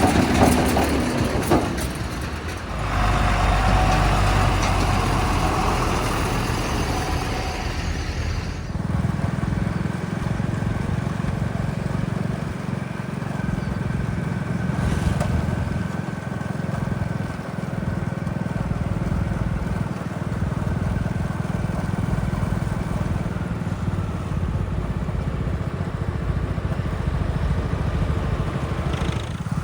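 Heavy diesel vehicle engine running steadily. About nine seconds in, the sound changes abruptly to a steadier, deeper engine note that holds to the end.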